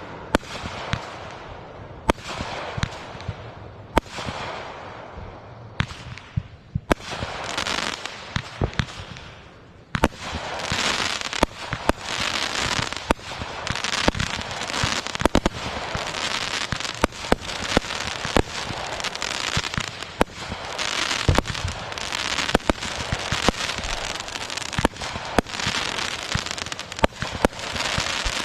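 Fireworks going off: separate aerial bursts with crackling tails, then from about ten seconds in a dense finale barrage of continuous crackle and rapid bangs.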